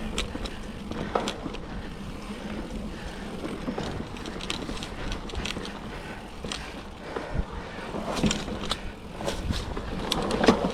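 2007 Cannondale Rush mountain bike ridden over a rough dirt trail: tyres rolling on the dirt with frequent clicks and rattles from the bike over bumps, over a steady low rumble.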